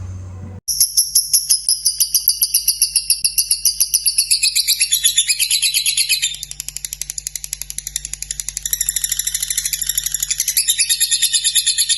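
Lovebird's long chattering trill (the "ngekek"), a rapid even string of high, sharp pulses at about ten a second. It starts abruptly about half a second in, softens for a couple of seconds in the middle, then picks up again.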